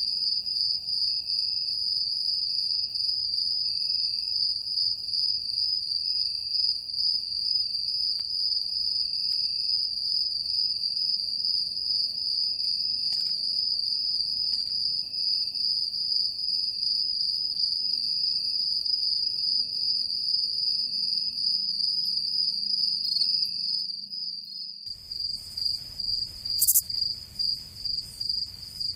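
Ambience of insects, like a cricket chorus, trilling in a steady, continuous high-pitched drone over a faint low rumble. About 25 seconds in it cuts to a different insect ambience of rapid, choppy chirping pulses.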